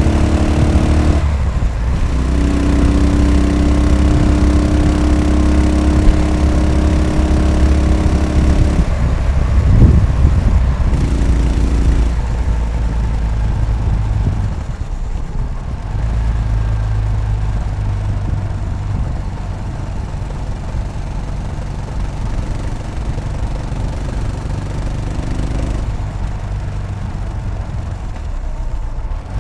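Yamaha SR500 single-cylinder four-stroke engine pulling the motorcycle along. Its note breaks off briefly twice in the first ten seconds, then settles into lower, slightly quieter running for the rest.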